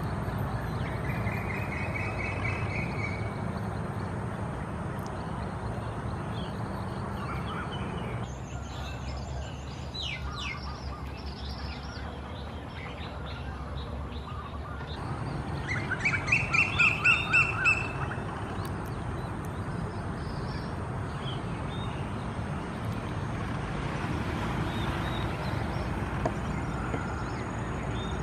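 Birds calling in open country: a short trill about two seconds in, scattered chirps, and a louder run of rapid repeated notes about sixteen seconds in. Underneath is a steady low rumble and a faint steady high tone.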